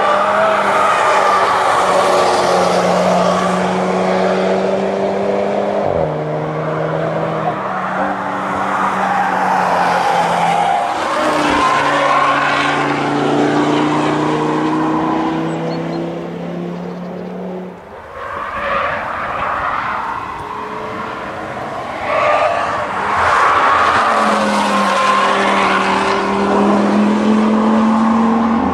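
Performance cars driven hard past on a racetrack one after another, among them a VW Golf R Cabriolet's turbocharged four-cylinder and an Audi Q3 RS's turbocharged five-cylinder. The engines rev, with the pitch stepping down at each upshift and a short lull between passes.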